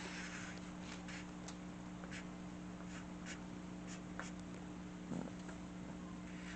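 Faint, short scratching strokes of a drawing tool on paper, coming every half second or so, over a steady low electrical hum.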